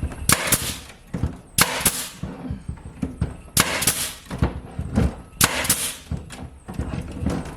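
Nail gun firing four shots about two seconds apart into thin paneling, each a sharp crack with a short hiss, with small clicks between. The nails are not catching anything solid behind the paneling.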